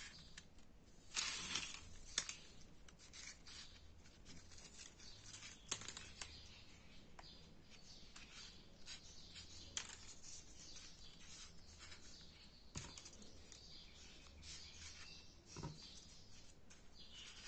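Folded paper origami units rustling and rubbing as they are slotted into one another by hand, with scattered light clicks and a louder crinkle of paper about a second in.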